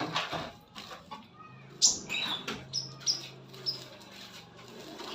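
A sunbird giving about five short, sharp, high chirps over two seconds, after some rustling and clicks, over a low steady hum.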